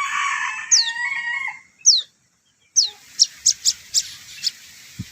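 A young prinia chick calling to be fed. Sharp high notes fall quickly in pitch, mixed with a harsh chattering call through the first second and a half. This is followed by a quick run of short high chips, and a single soft knock near the end.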